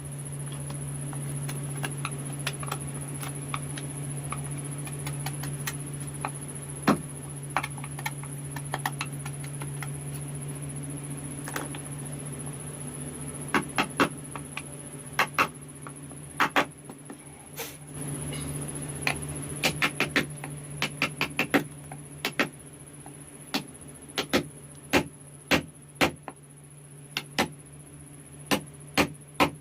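Wood carving by hand: sharp, irregular taps of a carving chisel being struck into wood, some in quick runs of two or three, over a steady low hum.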